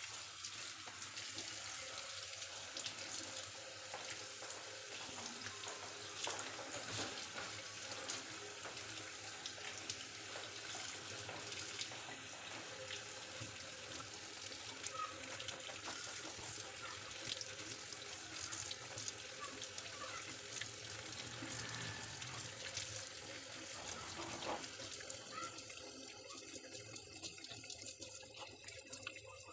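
Water running steadily from a tap into a sink, the splashing changing a few seconds before the end.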